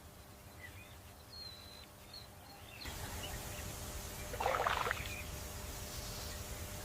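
Quiet outdoor ambience with a few faint, short bird chirps, then after an abrupt change a steady rushing like flowing water, with a brief louder splash-like burst about four and a half seconds in.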